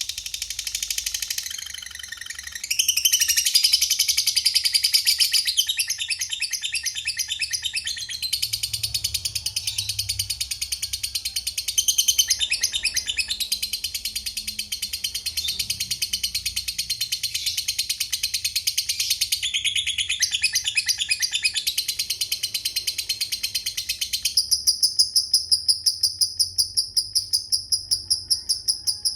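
Lovebird chattering in long, rapid, shrill trills, the drawn-out 'ngekek' call, in a dense run of fast pulses. Near the end the sound turns to a faster, very even high ticking.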